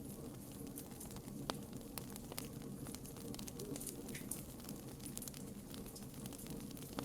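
Wood bonfire burning: scattered sharp crackles and pops over a low, steady rush of flames.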